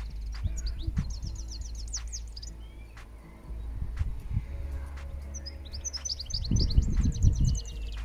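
A songbird singing in two quick runs of rapid, repeated high notes, one about half a second in and another from about five and a half seconds in, over a low rumble.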